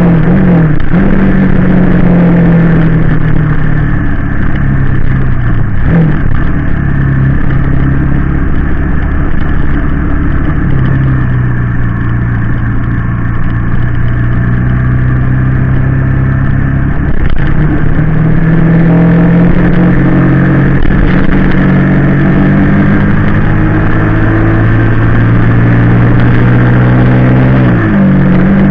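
Honda VT250FG's 250 cc V-twin engine running loud, its pitch rising and falling with the throttle. The engine note drops sharply about a second in and again near the end.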